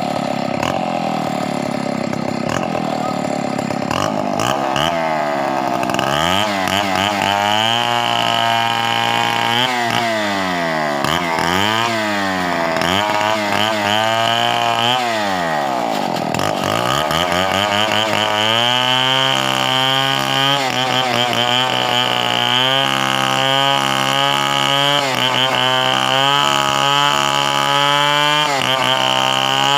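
Chainsaw engine running at speed, its pitch rising and falling repeatedly in the first half and dropping sharply about sixteen seconds in, then holding steadier with a fast, regular wavering.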